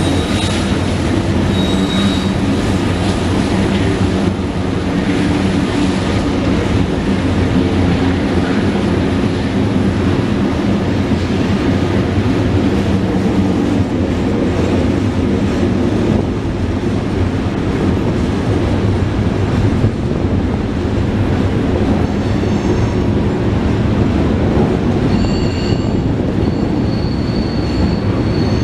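Union Pacific freight train passing: the diesel locomotives pull away at the start, then loaded gondola cars carrying pipe roll by with a steady rumble of wheels on rail. Thin, high wheel squeals come briefly near the start and again near the end.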